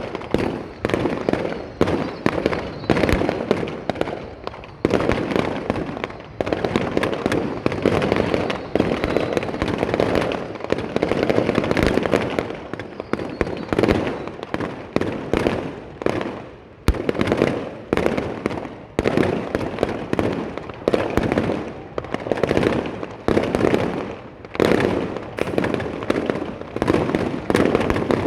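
Fireworks display: aerial shells bursting in quick succession, a sharp bang every half second to second, each trailing off in echo before the next.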